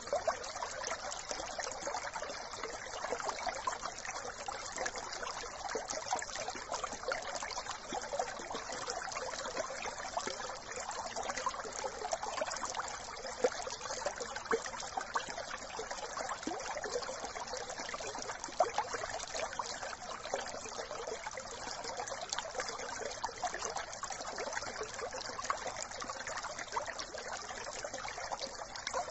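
Brook water trickling and babbling steadily, with many small splashes.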